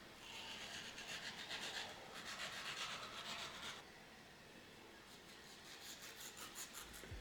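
Quick rhythmic scraping strokes in two runs: a louder run of about three and a half seconds, then a shorter, fainter run near the end.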